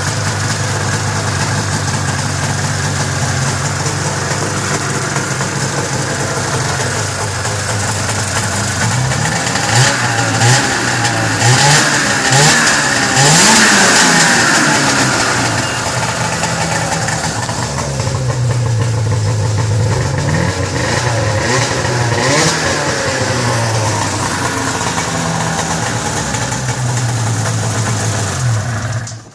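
1995 Arctic Cat Cougar 550's liquid-cooled two-stroke engine idling, then revved up and down in repeated throttle blips, with the loudest rev about halfway through. It is a little boggy when the throttle opens, which the owner puts down to carburettors needing a cleaning.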